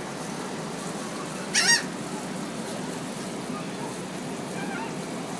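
A bird gives one loud, short squawk about one and a half seconds in, with a couple of faint chirps later, over a steady background hiss.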